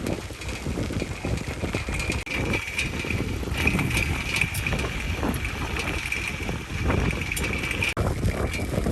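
Wind buffeting the microphone of a camera riding along on a bicycle, a loud fluttering rumble, with a faint steady high whine underneath.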